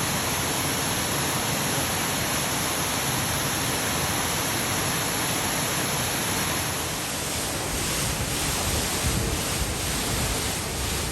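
Steady rushing of falling water, like a waterfall. About seven seconds in, the sound changes slightly, and a few low bumps of wind on the microphone come near the end.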